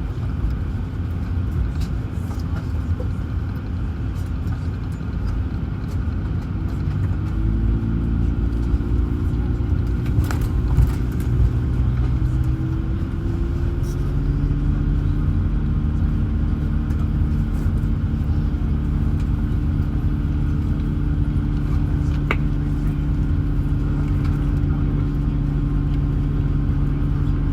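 Cabin hum of an Airbus A220 during pushback and engine start: a steady low rumble with a few steady whining tones that come in about seven seconds in, rise slightly, then settle into a new, steady set about fourteen seconds in as a Pratt & Whitney PW1500G geared turbofan spools up.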